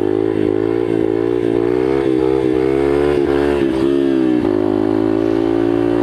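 Yamaha TTR125 pit bike's single-cylinder four-stroke engine running while riding, its pitch wavering with the throttle, then holding steady from about four and a half seconds in.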